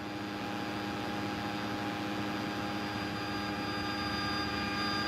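Engine and propeller drone of a light airplane heard inside its cabin: a steady noise with several steady tones through it, slowly growing a little louder.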